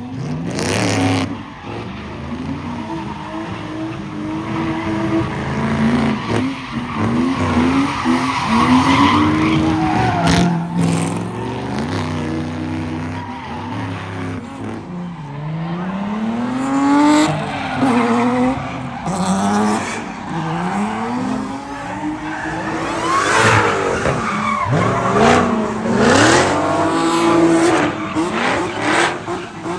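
Cars spinning donuts: engines revving up and down again and again over tyres squealing and skidding.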